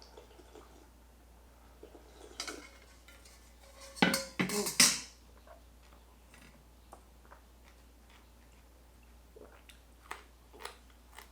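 Dishes and metal utensils clinking and clattering, with a short run of louder clatter about four seconds in and a few light taps near the end.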